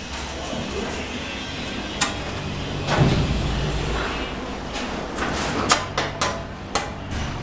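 Masonry hand-tool work with cement bricks and mortar: continuous scraping with a series of sharp knocks, several of them close together near the end.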